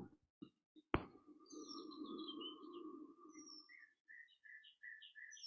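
Faint birdsong: a run of short high chirps, some sliding down in pitch, with quicker repeated notes near the end. A sharp click about a second in, and a low hum that fades out after about four seconds.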